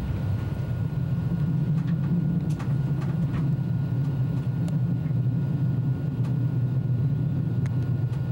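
Steady low rumble of an early ICE high-speed train heard from inside, with a few faint clicks.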